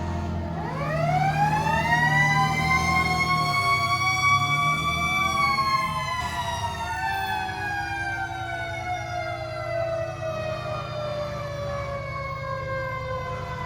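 A vehicle siren winds up over about a second and a half, holds its pitch, then slowly winds down through the rest, with a second siren tone rising and falling alongside it early on. A steady low engine hum runs beneath.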